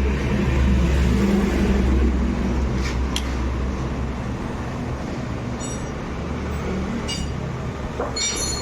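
A steady low engine-like rumble that sets in suddenly and eases slowly, with a few short metallic clinks in the second half.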